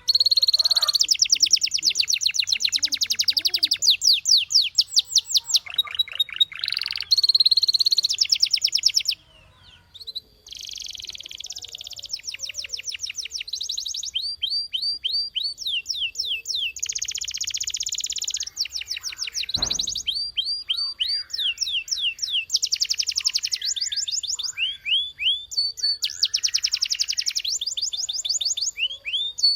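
Domestic canary singing: long, rapid trills of quickly repeated high notes, one after another, with a pause of about a second roughly a third of the way in. A single brief low thump comes about two-thirds of the way through.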